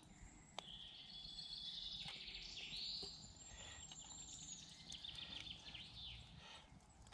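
Faint birdsong in woodland: high chirps, short glides and fast trills. A single light click sounds about half a second in.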